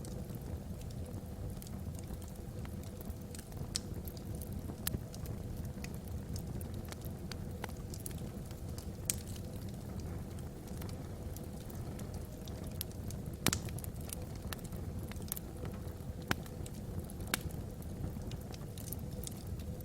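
Wood logs burning in a fireplace: a steady low rumble of the flames with irregular sharp crackles and pops, the loudest pop about two-thirds of the way through.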